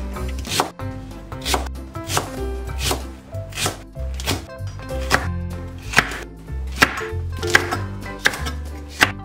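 Chef's knife chopping green onion and chili peppers on a bamboo cutting board, the blade striking the board about once or twice a second in an uneven rhythm.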